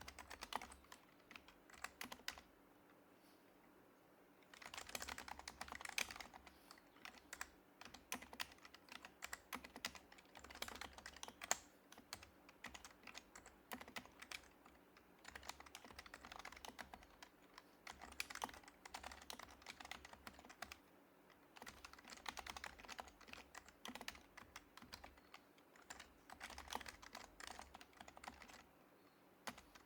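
Typing on an HHKB Professional HYBRID Type-S keyboard with silenced Topre switches: soft, quick keystrokes in bursts, with a pause of about two seconds a few seconds in.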